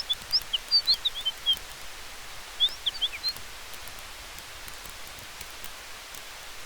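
Forest campfire ambience: a steady hiss of wind and fire with faint crackles, over which a small bird chirps quickly and high in two short bursts in the first half.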